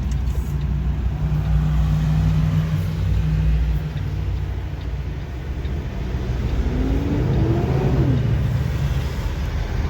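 Semi-truck diesel engine running as the truck drives. Its note drops about four seconds in, then a whine rises for about a second and a half and falls away just after eight seconds.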